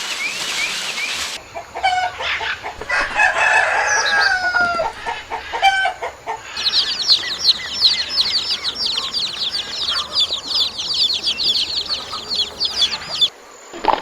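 Chickens calling: mixed clucks and short calls at first, then from about halfway a dense run of rapid, high, repeated chirps that stops shortly before the end.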